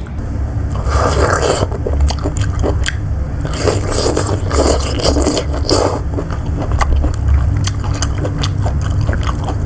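Close-miked eating sounds: a utensil scraping against the food container, with biting and chewing, in repeated short noisy bursts about two a second. A steady low hum runs underneath.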